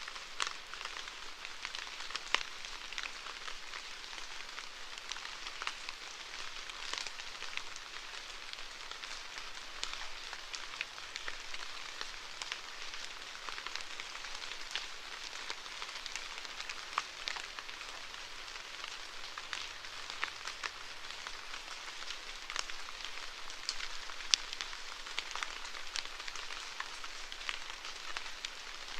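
Steady rain falling, a dense patter of individual drops striking a surface.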